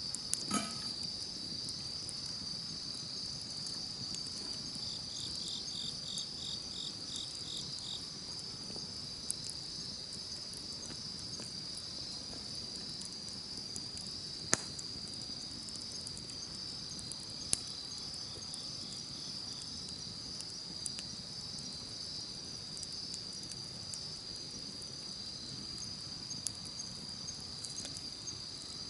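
Crickets and other insects keep up a steady high trill, with a second insect chirping in a quick pulsing run about five seconds in. A campfire gives a low hiss under the insects and a few sharp crackling pops, the loudest about halfway through.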